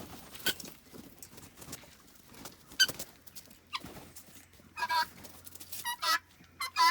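Free-ranging poultry calling: a few sharp clicks early, then short, repeated calls in quick pairs and triplets from about five seconds in.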